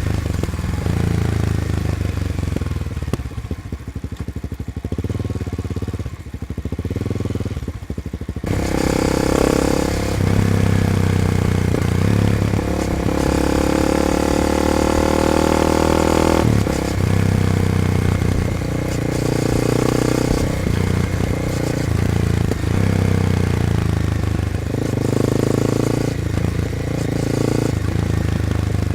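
Honda CBR300R's single-cylinder engine heard at its exhaust while riding. The revs climb and drop back several times, as with gear changes, and the engine gets louder about eight seconds in as the throttle opens. The note is slightly crackly and sharp, which the rider puts down to the muffler's glass-fibre packing being worn thin.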